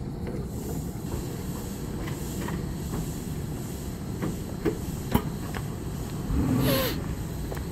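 Steady low rumble of an NJ Transit commuter train with Comet V coaches standing at the platform, with scattered knocks and clicks as passengers step aboard. About six and a half seconds in, a brief, louder burst of hiss.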